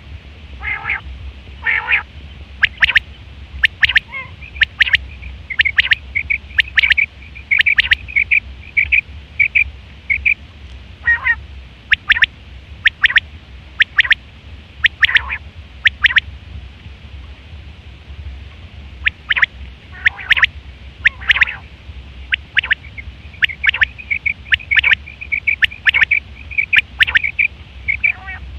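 Quail calling over and over: sharp, high call notes in bouts, some broken by quick runs of rapid notes, with a short pause a little past the middle. A low, steady hum runs underneath.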